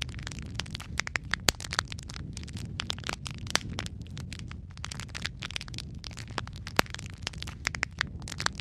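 Wood fire crackling in a fireplace: a steady low rumble of flame under many irregular sharp pops and snaps, with one louder pop near the end.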